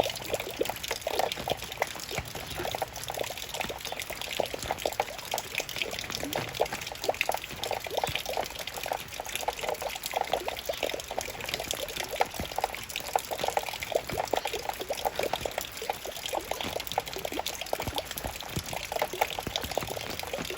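Raindrops falling and dripping in a steady, dense patter of many small drops.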